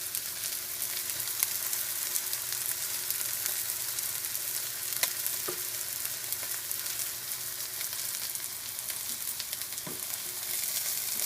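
Ghee sizzling in a hot pan with browned chicken pieces: a steady frying hiss full of small crackles, with a few sharper utensil taps about five and ten seconds in.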